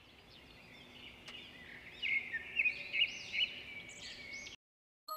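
Birds chirping, with short rising-and-falling calls. They start faint and get louder from about two seconds in, then cut off abruptly near the end.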